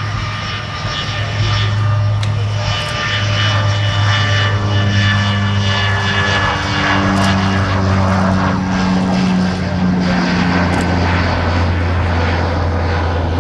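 Propeller airplane engine running with a loud, steady drone. A few of its higher tones sag slightly in pitch partway through.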